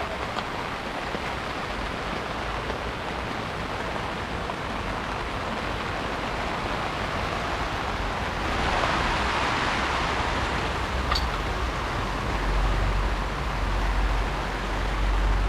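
Heavy rain falling as a steady hiss that swells louder for a couple of seconds midway. A deep low rumble builds in the last few seconds.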